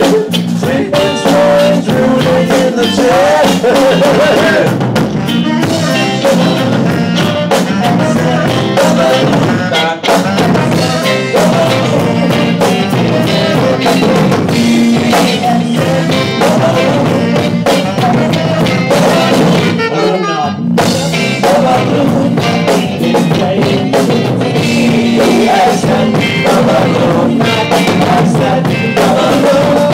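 Live rock jam band playing an instrumental passage, with the drum kit prominent.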